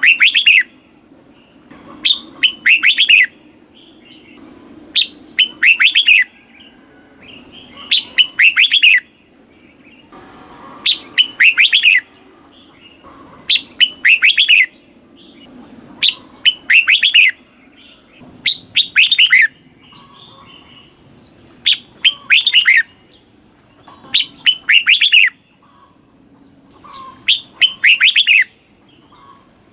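Red-whiskered bulbul singing: about eleven short, loud song phrases, one every 2.5 to 3 seconds, each a sharp note or two followed by a quick run of downward-sweeping notes. A faint low hum lies underneath.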